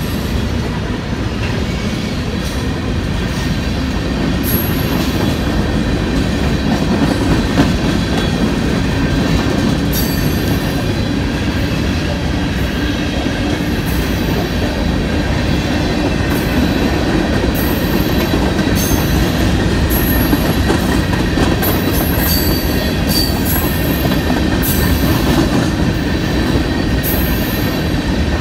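Railroad cars of a train rolling past, a steady loud clatter of wheels on the rails, with short high squeals from the wheels coming again and again after the first few seconds.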